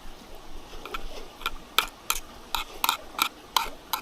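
Eating utensils clinking against metal camp cookware: a quick run of about eight sharp clinks, starting about a second and a half in.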